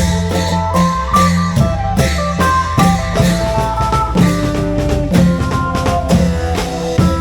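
Isan folk music played by a klong yao long-drum band: a steady drum beat under a moving melody line, with a heavy bass.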